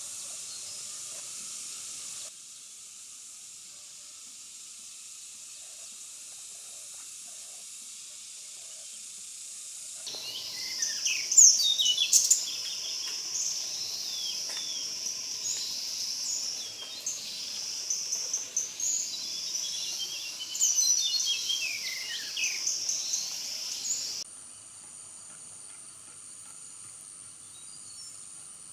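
Insects droning steadily in a high, even hiss, with birds calling in quick falling chirps through the middle. The chirping and the louder drone stop abruptly near the end, leaving a thinner, higher steady insect whine.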